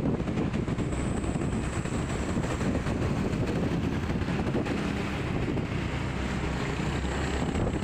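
Steady noise of vehicles moving along a road, with wind buffeting the microphone and a faint steady high-pitched whine.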